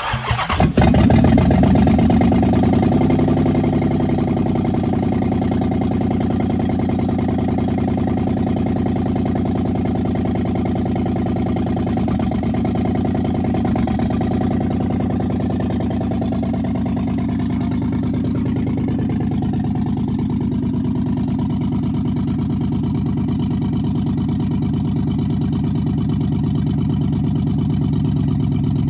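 Dodge Charger's 5.7 L Hemi V8 starting and flaring up about a second in, then settling into a steady idle. The owner says the engine is misfiring and has a couple of codes.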